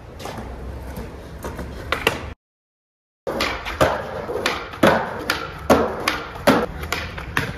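Steady noise with a few light knocks, broken by a second of dead silence, then a skateboard rolling with a quick run of sharp clacks of the board hitting the ground.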